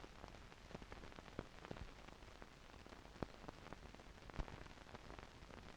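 Faint steady hiss with scattered crackling clicks: the background noise of an old recording with nothing else on it.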